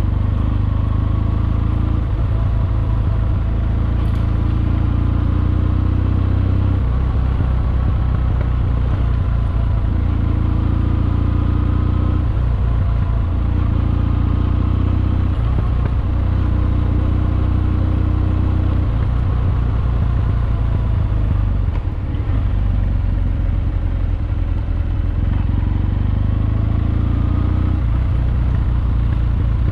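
Kawasaki W650's air-cooled parallel-twin engine, running through a Wyvern Classic exhaust while riding. The throttle is rolled on and off every few seconds, and the engine note rises under acceleration.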